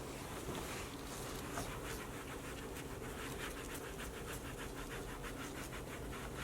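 Brush scrubbing during car detailing: a few scattered strokes, then from about two and a half seconds in a fast, even run of scrubbing strokes, about five a second, over a steady low hum.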